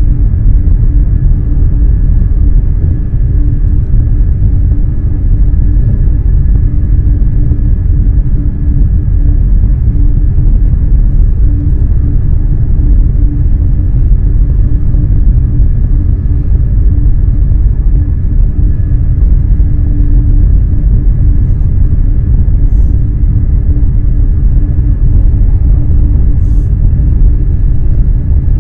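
Eurostar high-speed electric train running: a steady, loud low rumble under a constant hum.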